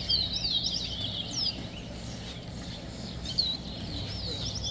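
Caged songbirds singing in a song race: quick twittering phrases of high gliding notes, a run at the start and another short one about three and a half seconds in.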